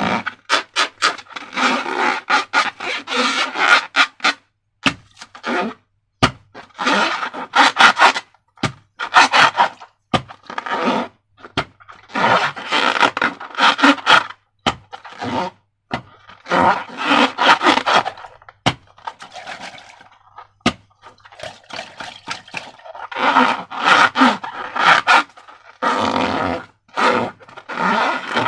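Slime being worked by hand, scraped and squished, in irregular bursts with sharp clicks in between.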